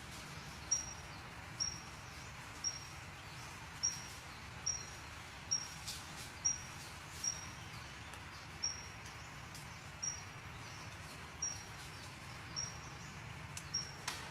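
A small bird repeating a short, high, thin chirp about once a second, faint over a soft steady outdoor hiss.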